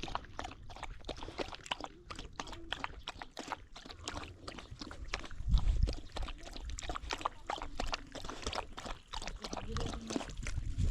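A thirsty dog lapping up water: a quick run of wet clicks, several a second, with a few low thuds partway through.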